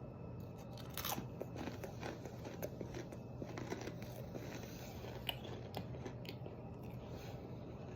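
A person bites into a Takis rolled tortilla chip with a sharp crunch about a second in, then chews it with faint crunching.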